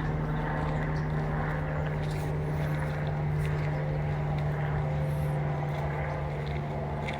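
A steady, unchanging low engine-like drone, a deep hum with a stack of even tones above it, with faint light ticks over the top.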